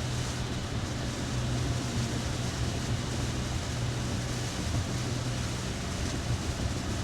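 Steady cabin noise of a Tesla driving in heavy rain: an even hiss of rain and wet-road tyre spray over a constant low hum.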